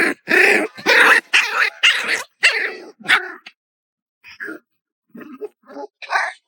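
A dog barking in a rapid run of about seven loud barks, then a few quieter, scattered yips and whimpers in the second half.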